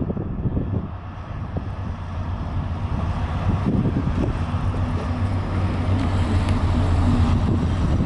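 Diesel train engine running with a steady low hum, growing gradually louder as the train draws nearer, with wind buffeting the microphone.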